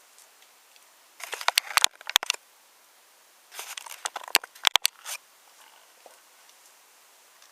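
Wooden toy train pieces clicking and clattering in two short bursts of sharp clicks, about a second in and again near the middle.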